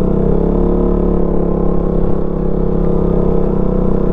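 Motorcycle engine running at a steady cruising speed, one even engine note that neither rises nor falls, over a low rumble of wind and road.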